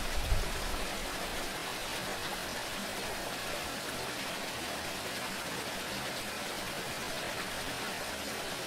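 Steady running water: an even, unbroken rush of water noise. A soft low bump comes just after the start.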